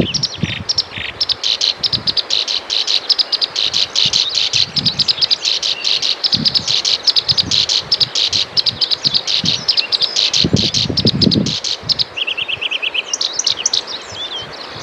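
Small birds chirping in a rapid, dense stream of short high notes, breaking near the end into a quick trill and a few varied calls. Low thumps sound now and then, heaviest about ten seconds in.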